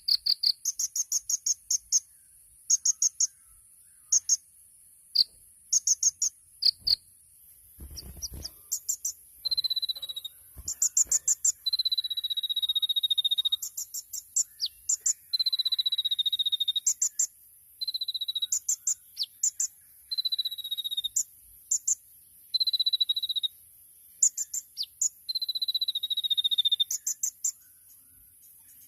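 Kolibri ninja sunbird singing: short bursts of very rapid, high chattering notes. From about a third of the way in these alternate with long, steady whistles that fall slightly in pitch.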